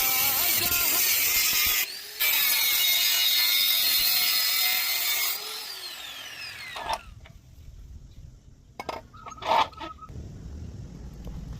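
A high-pitched power tool running with a loud hiss, cutting out briefly near two seconds in, then switched off about five seconds in with a falling whine as it winds down, followed by a few sharp knocks.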